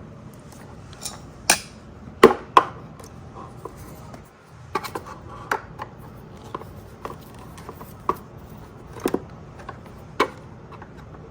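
Hand screwdriver work on the plastic body of a Razor MX125 electric kids' motorcycle: scattered sharp clicks and knocks of the screwdriver and metal screws against hard plastic panels as the Phillips screws are taken out. The loudest knocks come about two seconds in, with lighter clicks after that.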